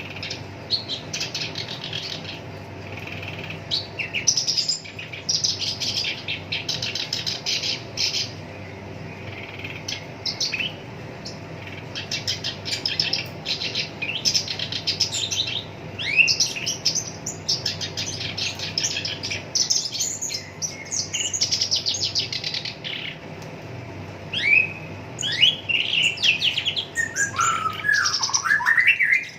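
Black-browed reed warbler singing a continuous, harsh, chattering song of rapid rattling trills, broken by short pauses, with a run of quick falling notes near the end.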